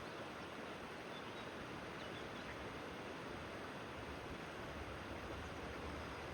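Steady rush of a flowing river, with a few faint, short high chirps in the first half.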